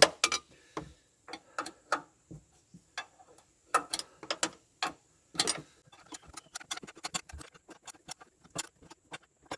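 Irregular clicks and knocks of hand tools on metal parts while brackets and bolts are fitted, some ringing briefly. In the second half comes a run of fainter, quicker ticks.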